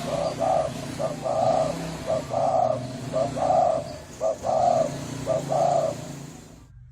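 Spotted dove cooing in the resonant 'thổ rền' style, about six coos in a row, each a short note followed by a longer one. The sound cuts off suddenly near the end.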